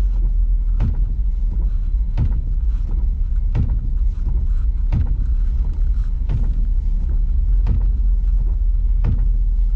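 Car driving: a steady low rumble from engine, road and wind, with a short knock repeating about every 0.7 seconds.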